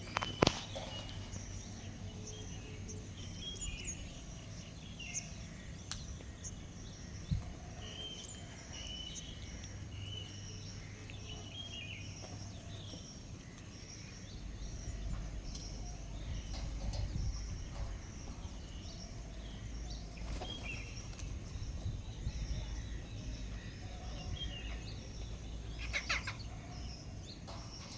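Several birds chirping and calling in short scattered notes over a steady low rumble, which gets louder about halfway through. A sharp click comes near the start and another about a quarter of the way in.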